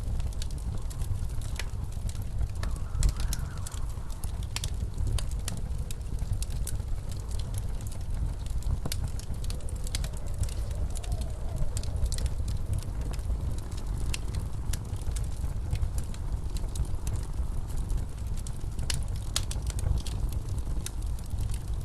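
Wood fire crackling in a fireplace, with irregular sharp pops and snaps over the steady low rumble of blizzard wind outside. The wind rises now and then into a faint howl.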